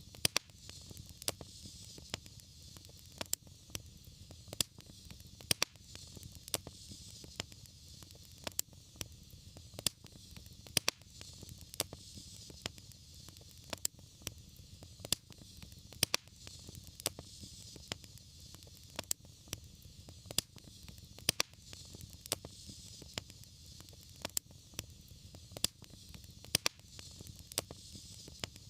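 Wood fire burning in a fireplace, crackling with frequent, irregular sharp pops over a steady low rumble and soft hiss.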